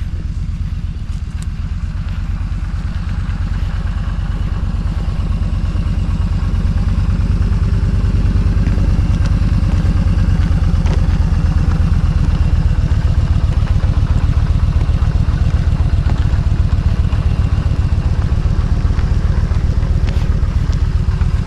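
Yamaha motorcycle engine running at low speed, a steady fast low pulsing that grows louder over the first several seconds and then holds.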